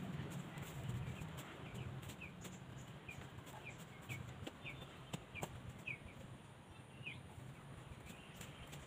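A bird chirping: short, falling high-pitched chirps about twice a second for several seconds, then one more, over a low steady background rumble.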